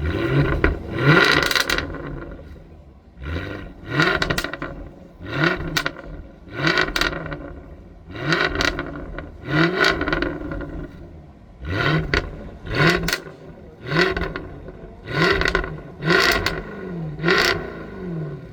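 Jaguar F-Type's supercharged 5.0-litre V8 exhaust being revved in a series of about a dozen short blips, each climbing in pitch and dropping back.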